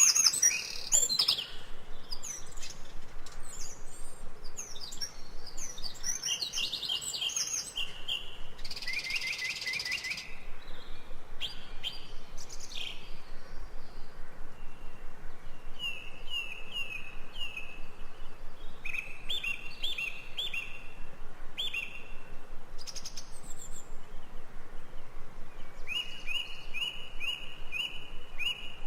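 Several birds chirping and singing together in jungle ambience, a mix of quick whistled phrases and runs of repeated short high notes.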